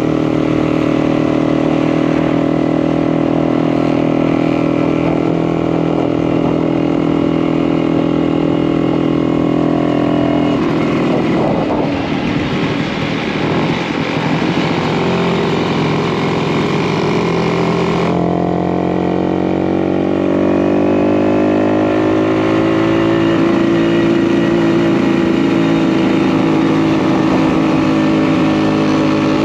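1952 DKW RT 200H's single-cylinder two-stroke engine running under way. It holds a steady note, drops and wavers from about ten seconds in as the rider eases off, then climbs in pitch from about eighteen seconds as it speeds up again, and runs steadily near the end.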